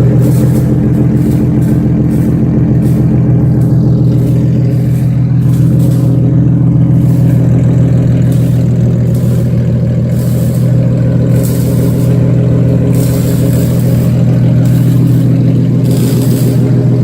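Nissan 370Z's 3.7-litre V6 idling steadily and loudly through a catless, straight-piped exhaust with test pipes in place of the catalytic converters.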